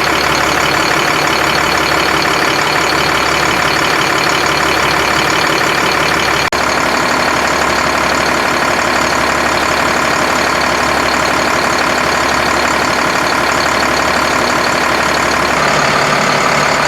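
Volvo FL6 truck's D6A six-cylinder diesel engine running steadily, with a momentary break in the sound about six and a half seconds in and a slight change in tone near the end.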